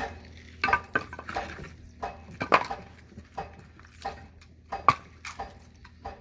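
Firewood being split by hand: a run of sharp wooden knocks and clatters at irregular intervals, the loudest about two and a half and five seconds in.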